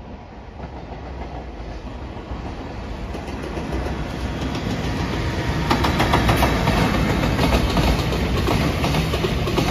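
An electric locomotive hauling a container freight train approaches and passes close by, its rumble growing steadily louder. From about halfway through, the wagons' wheels clatter rapidly over the rail joints as the container cars roll past.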